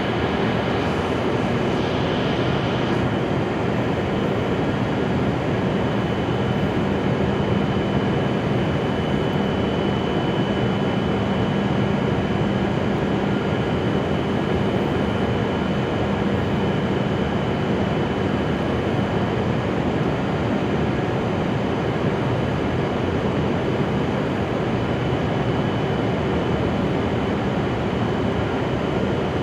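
A Shinkansen train standing at the platform, its fans and electrical equipment giving a steady hum with a faint high whine.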